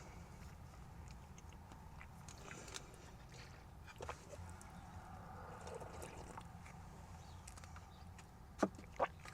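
A person chewing sushi rolls: soft mouth sounds and small scattered clicks, with two sharp clicks near the end.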